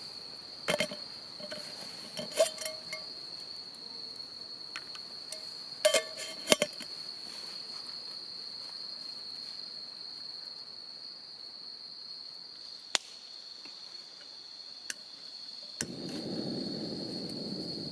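Insects trilling steadily on one high pitch, with a few sharp knocks and clinks in the first several seconds. Near the end a low rushing noise starts suddenly.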